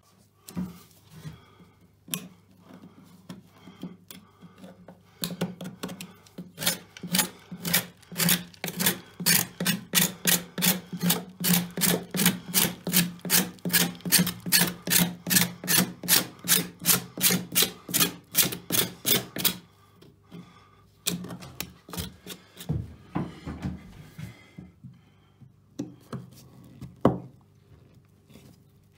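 Rhythmic back-and-forth scraping of a hand tool, about two strokes a second for around a quarter of a minute, with scattered scrapes before and after and one sharp knock near the end.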